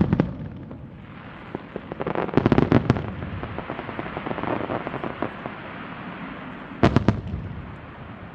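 Aerial fireworks exploding: a rapid cluster of sharp bangs about two seconds in, crackling afterwards, and two more sharp bangs close together near the end.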